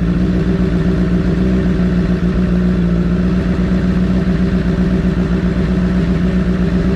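Straight-piped Honda CBR1000RR Fireblade inline-four engine running loud and steady at a constant engine speed, with no revving.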